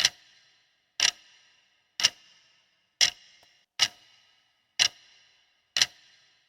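Countdown-timer ticking sound effect: seven sharp ticks about a second apart, each followed by a short ringing tail.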